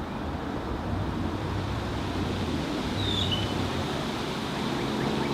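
Steady rumble of distant road traffic, with a short high bird call falling in pitch about three seconds in.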